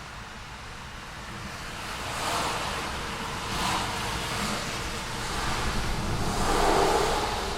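City street traffic: cars pass one after another over a steady background of traffic noise, each pass a swell of tyre and engine noise, the loudest near the end.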